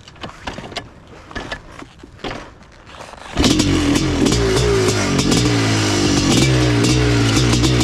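Scattered scuffs and clicks as a 1986 Kawasaki KX500 is bump-started, then about three and a half seconds in its 500 cc single-cylinder two-stroke engine, fitted with an FMF exhaust, fires and runs loudly, its speed rising and falling as the throttle is blipped.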